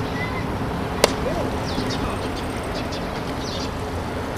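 One sharp crack of a baseball impact about a second in, over a steady haze of open-air noise, with small birds chirping repeatedly.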